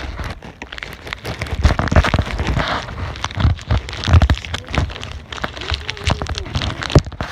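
Plastic wrapper of a protein bar crinkling and crackling as it is handled and torn open by hand.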